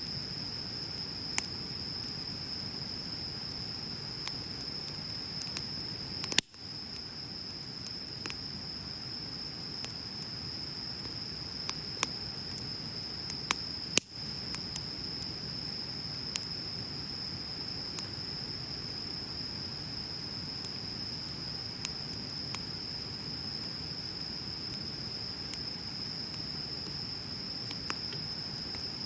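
Wood bonfire burning, with scattered sharp crackling pops over a low steady rustle of flames. A steady high-pitched tone, like an insect's trill, runs underneath.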